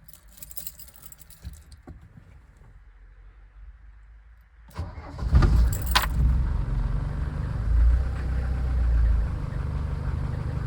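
Mercedes 307D diesel engine cold start after a few weeks standing: a few faint key clicks, then about five seconds in the starter cranks briefly and the engine catches first time, without choke, and runs on steadily.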